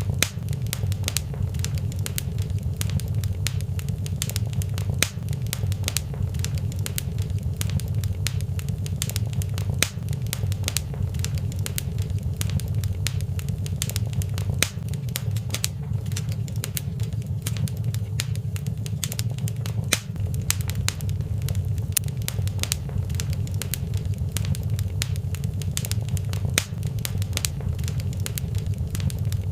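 Fireplace fire crackling: many small irregular snaps and pops over a steady low rumble.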